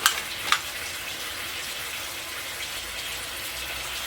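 Calamari strips and mussels sizzling steadily in a hot pan on raised heat. Two sharp clatters sound in the first half second.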